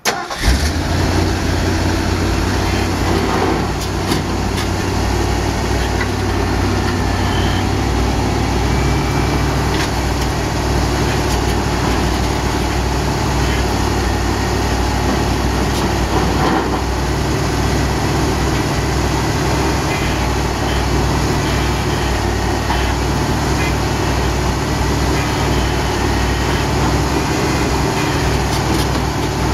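The 1981 Ford F350's 400 V8 engine running steadily at idle, with a deep hum that shifts slightly a few times.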